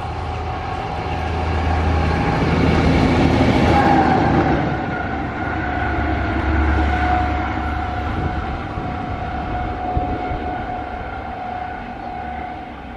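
A train passing through, its rumble and rail noise swelling to a peak a few seconds in and then slowly fading, with a steady whine running through it.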